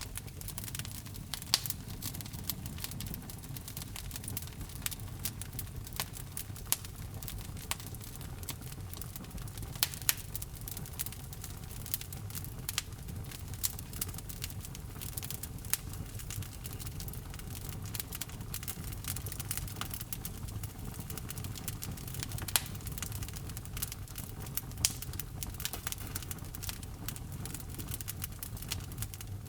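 Wood fire burning in a fireplace: frequent irregular crackles and sharp pops over a low steady rumble of the flames.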